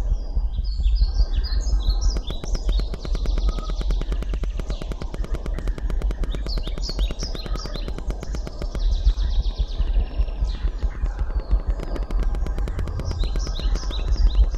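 Bird chirps in quick runs of short high notes that come back every few seconds, over a steady low rumble, with a fast run of clicks through the middle.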